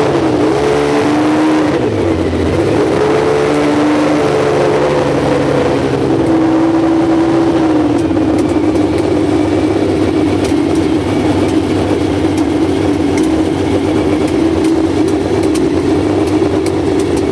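A car engine running close by, its pitch rising and falling in the first few seconds as it is revved lightly, then settling into a steady idle.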